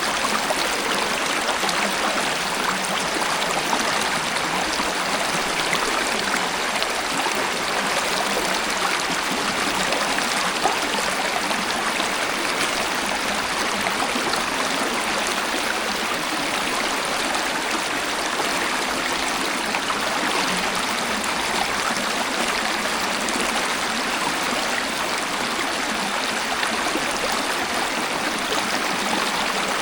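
Waterfall and stream water flowing steadily: a constant, even rush of splashing water with no changes.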